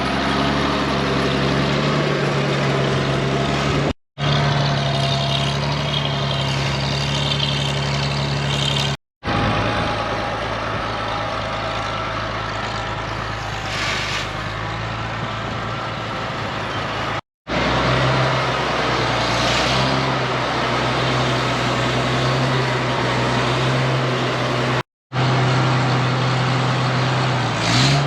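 Vehicle engine running steadily, broken by several brief cuts.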